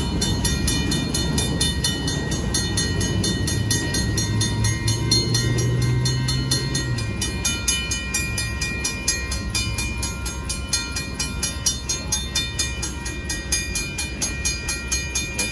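Autorack freight cars of a Union Pacific auto train rumbling over the crossing, the rumble fading out about halfway through as the end of the train passes. A grade-crossing bell rings rapidly and steadily throughout.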